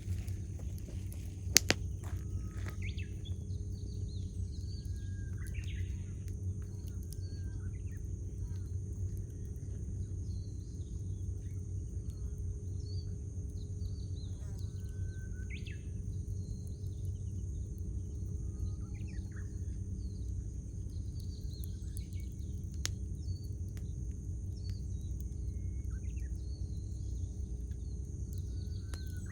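Wood campfire burning with a steady low rush and a sharp pop about a second and a half in, a few fainter crackles later, while small birds chirp and call on and off.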